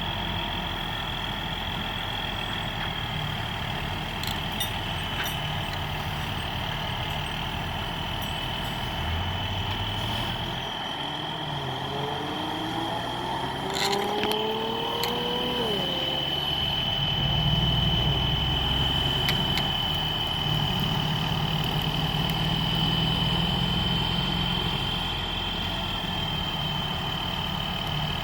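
Tow truck engine running, with a steady high-pitched whine over it throughout. The engine note climbs in pitch about halfway through, then runs louder for several seconds before settling back.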